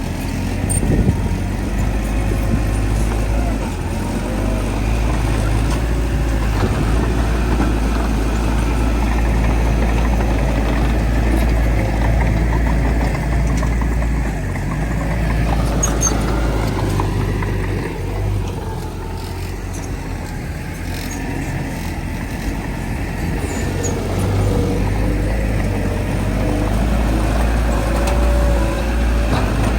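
Heavy diesel earthmoving machinery at work, such as a bulldozer pushing soil. The engine runs continuously and loudly, with its level dipping for a few seconds past the middle.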